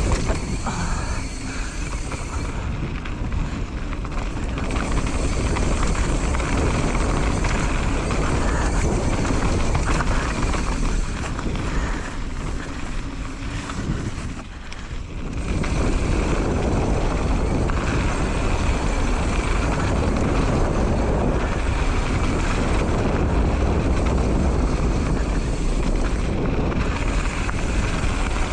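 Wind rushing over the camera microphone with the rumble and rattle of a mountain bike rolling down a dirt trail, dipping for a moment about halfway through before picking up again.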